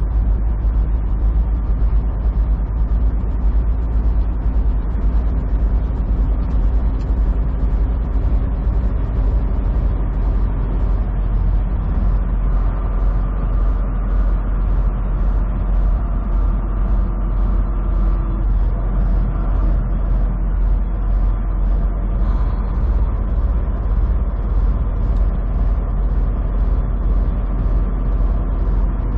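Semi truck driving at a steady speed, heard from inside the cab: a steady low diesel engine rumble with road and tyre noise.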